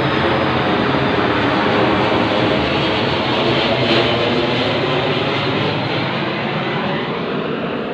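Airplane passing low overhead: a loud, steady jet-like noise that swells to its loudest about four seconds in, then slowly fades as it moves away.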